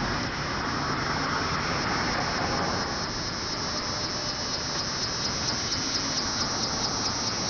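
Cicada calling from a tree: a high, rapidly pulsing buzz that builds from about three seconds in, over a steady rush of background noise. It is the call cicadas make to attract other cicadas.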